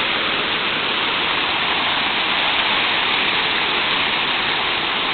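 Waterfall rushing steadily, a loud even roar of falling water heard close to the falls.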